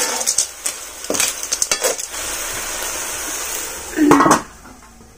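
Snails in their shells sizzling as they stir-fry in a wok, with a metal ladle scraping the pan and the shells clicking against it. A brief louder knock comes about four seconds in, and then the sound drops away.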